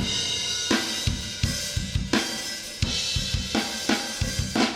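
Recorded metal drum kit playing back through a compressor on the stereo drum bus. Kick drum hits are dense, a snare cracks about every 0.7 s, and cymbals wash over the top.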